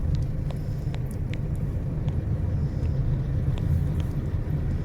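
Car driving along a road: a steady low rumble of engine and road noise, with a few faint light ticks.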